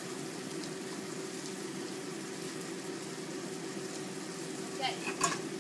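Beef frying gently in a black Korean stone pot on low heat: a steady quiet sizzle over a low hum, with a few short sharp noises near the end.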